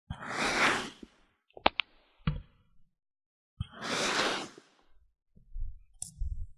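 Kinetic sand being worked with a tool: two long gritty swishes about three seconds apart, a few sharp clicks between them, and soft low thuds near the end.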